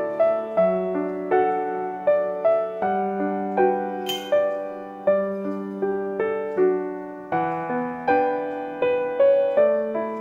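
Gentle background piano music: single notes and chords struck about twice a second, each one fading away before the next.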